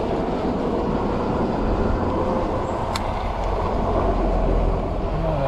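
Riding noise on an e-bike: wind rumbling on the camera microphone over road and traffic noise, with a faint steady whine underneath. A single sharp click comes about three seconds in.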